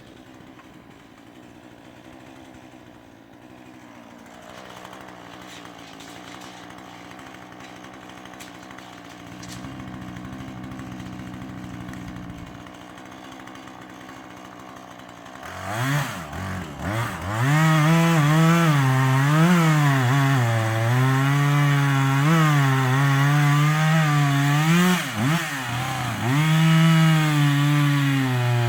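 Husqvarna 440e two-stroke chainsaw idling quietly, then revved up about halfway through and run at full throttle, its pitch dipping and recovering as it cuts into wood.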